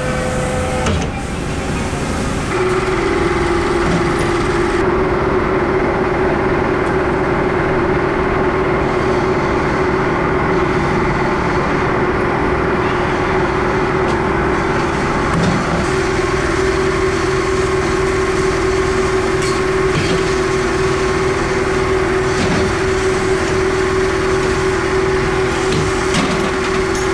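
A workshop machine's motor running steadily, a loud hum with one strong steady tone that comes up about two and a half seconds in.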